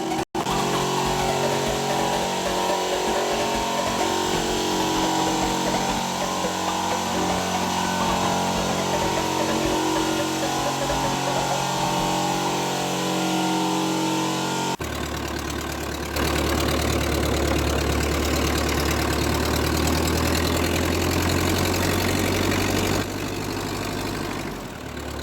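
Fiat 415 tractor engine running steadily, heard in several cuts; from about 15 seconds in, the running note is lower and heavier.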